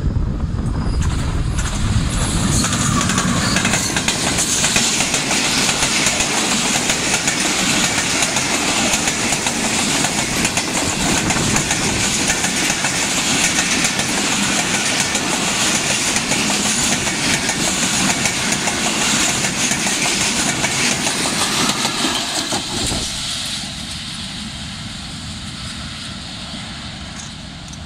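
Diesel-hauled passenger train passing close by, its wheels and coaches rumbling and clattering over the rails in a loud, steady rush. About 23 seconds in, the sound drops to a quieter, thinner rush as the train moves away.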